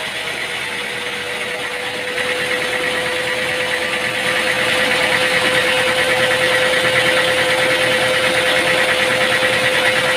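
Machinery running steadily with a constant hum, growing louder about two seconds in and again a couple of seconds later.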